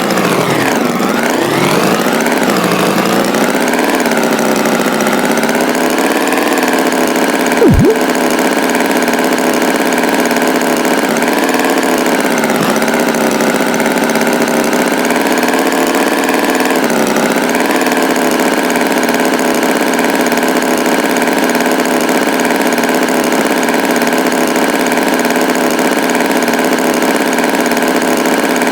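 Tractor engine running steadily. Its pitch dips and wavers over the first few seconds, then holds even. About eight seconds in there is one brief, sharp upward chirp.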